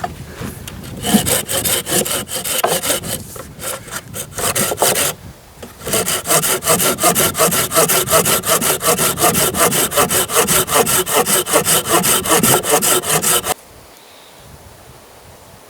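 Hand saw cutting through wood in quick back-and-forth strokes, about four a second, with a short pause about five seconds in; the sawing stops abruptly near the end.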